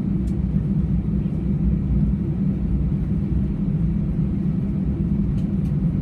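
Steady low rumble inside the cabin of an Airbus A320 airliner: engine and airframe noise heard from a window seat, with a couple of faint ticks.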